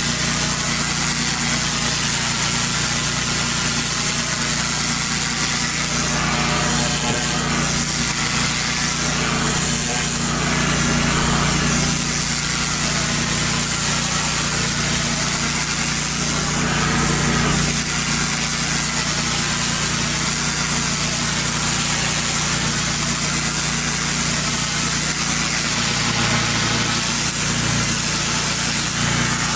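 A pressure washer's petrol engine running steadily, with the even hiss of the high-pressure water spray over it.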